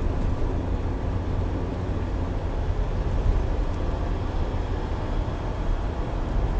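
Steady low rumble of a moving vehicle's engine and tyre noise, heard from inside the cabin.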